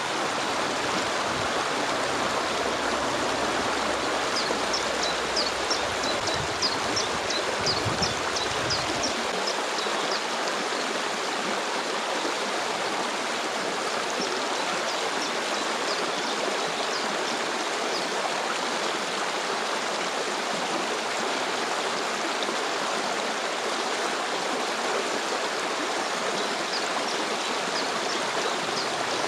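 Stream of flowing water running steadily with an even rush. A run of short high chirps rises above it a few seconds in.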